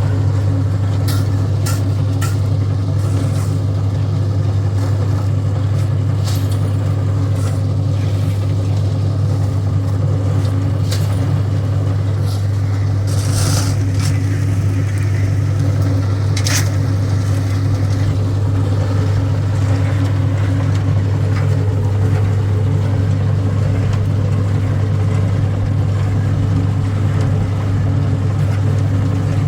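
An engine running steadily at one constant speed, with scattered sharp knocks and clanks over it.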